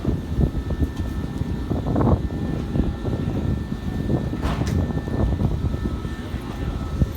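Nankai electric train running: a steady low rumble with a few knocks and a faint steady whine above it.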